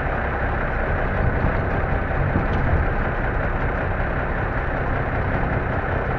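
Diesel engine of an M923A1 5-ton 6x6 military truck running steadily, with a deep low rumble and no change in pitch.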